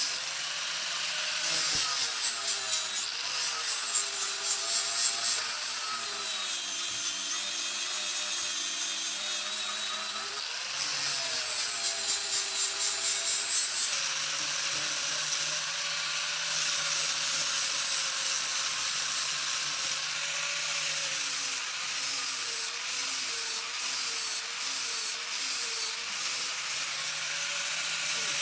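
A power tool working against a workpiece with a continuous rubbing sound. Its motor pitch sags and recovers again and again as the pressure on it changes, with a brief let-up about ten seconds in.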